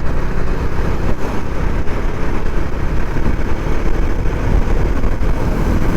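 Motorcycle underway on the open road: a steady rush of wind and engine noise, heard from the rider's position.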